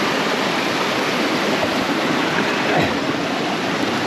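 Small waterfall rushing steadily, a constant hiss of falling water.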